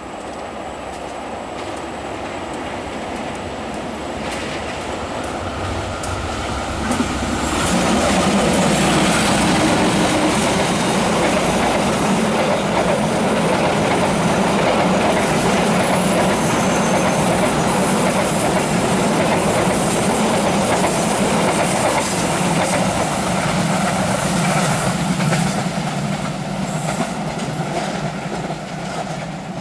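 The new-generation Progo passenger train passing close by: a loud, steady rush of wheels on rail over a low hum, which the uploader likens to an aircraft. It builds over the first seven or so seconds, holds, and eases slightly near the end.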